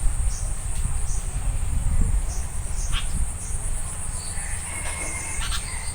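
Insects trilling steadily in a continuous high, finely pulsing drone, over a low rumble, with a few short high chirps and a brief call near the end.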